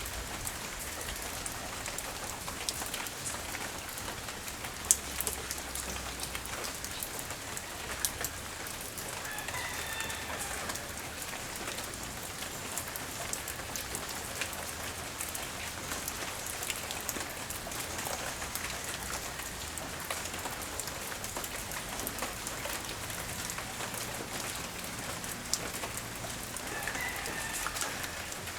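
Steady light rain falling on outdoor surfaces, with scattered drops and drips tapping close by; a few louder drip hits come about five and eight seconds in.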